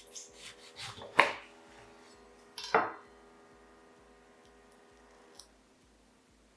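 Kitchen work sounds: a few quick knocks and clinks of utensils and dishes, with the loudest knock a little over a second in and another near three seconds in, over a steady faint hum.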